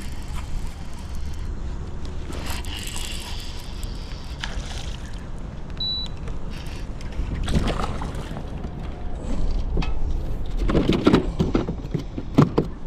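A fishing kayak on the water: water moving against the hull over a steady low rumble, with a cluster of knocks and rattles from gear being handled in the boat near the end.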